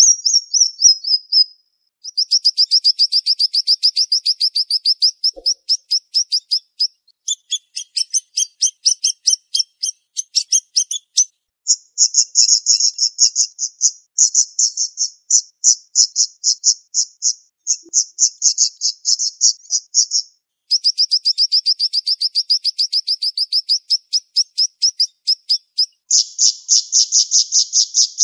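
Siri-siri songbird calling in fast, tightly spaced strings of sharp, high chirps. Each bout runs a few seconds and breaks off briefly before the next begins.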